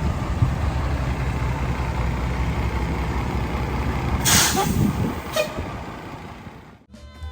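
Truck engine running with a steady low rumble. About four seconds in comes a loud burst of air hiss and a shorter one a second later, typical of truck air brakes. The engine fades, and the sound cuts off just before the end, where faint music begins.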